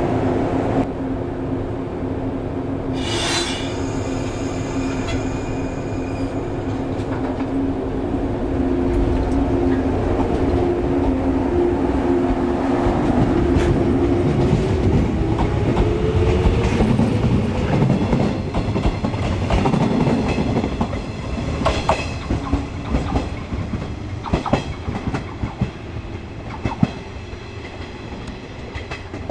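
Shinano Railway 115-series electric train running past close by: a steady low motor whine that rises in pitch about halfway through, then wheel clicks over the rail joints as the sound fades. A brief high squeal comes about three seconds in.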